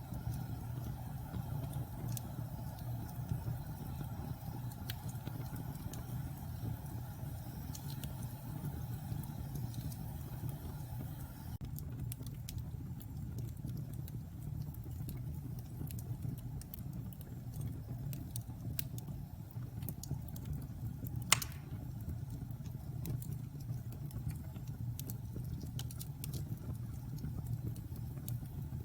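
Wood fire burning in a fireplace: a steady low rumble with scattered small crackles, and one sharp, loud pop about two-thirds of the way through.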